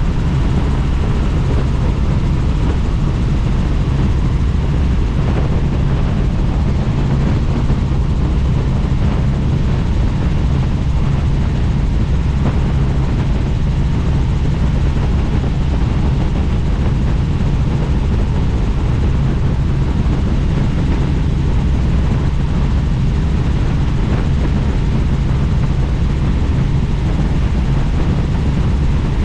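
Helicopter in flight heard from on board: a steady, loud drone of rotor and engine with wind rushing past the open doors.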